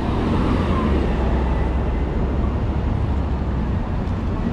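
Steady city traffic noise: an even wash of street sound with a low rumble from passing vehicles.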